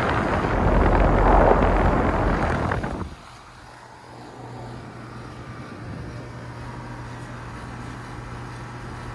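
2017 4-ton York central air conditioner condenser running: loud rushing air from its fan for about three seconds, then a sudden drop to a steady low hum of the running unit.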